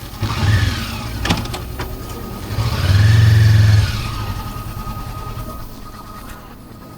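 Motor vehicle engine revving up and back down twice, the second rev louder and longer, then fading away.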